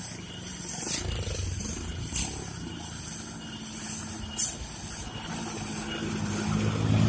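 Heavy truck's diesel engine running, growing louder near the end, with a few short, sharp hisses.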